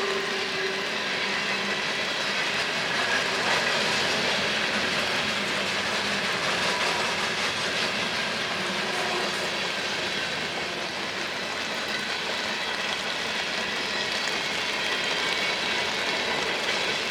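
Freight train rolling past, its wheels on the rails making a steady noise.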